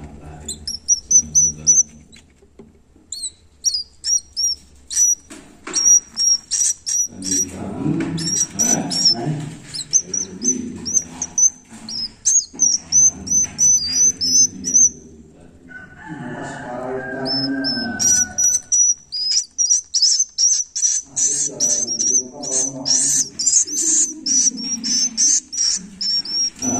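Swiftlet chicks calling: runs of short, high, rapid chirps, pausing briefly a few times, over a fainter low murmur.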